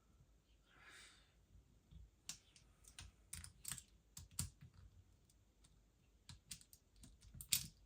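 Quiet, irregular small clicks and taps of an airsoft gas blowback pistol's parts being handled and taken apart by hand, with one sharper click near the end.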